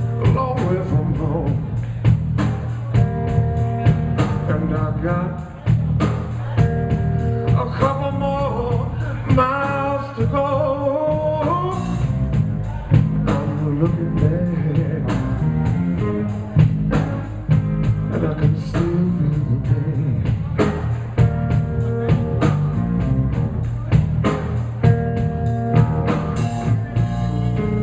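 Live blues band playing an instrumental break, with a drum kit keeping a steady beat under bass and lead guitar lines that bend in pitch.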